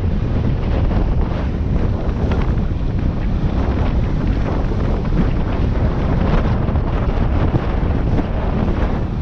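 Strong wind buffeting the microphone: a loud, steady rumble with no distinct rhythm that covers everything else.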